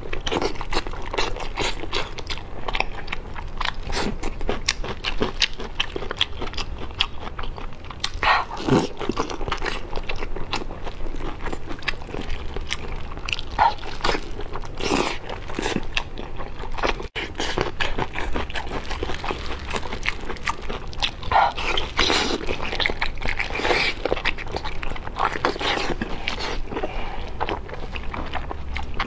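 Close-miked eating of braised pork-skin rolls: biting and chewing, with wet smacking and clicking of the mouth.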